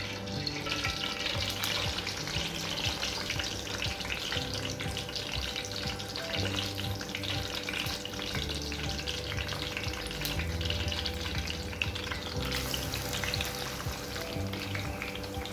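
Food sizzling and crackling as it fries in a hot pan.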